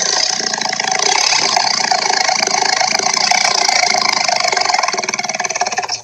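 Loud, steady, rattling engine-like running noise from a cartoon soundtrack, cutting off suddenly at the end.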